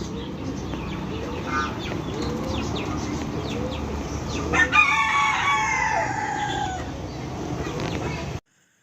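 Aseel rooster crowing once, a loud call of about two seconds starting about halfway through and falling in pitch at the end, with low clucking before it. The sound cuts off abruptly near the end.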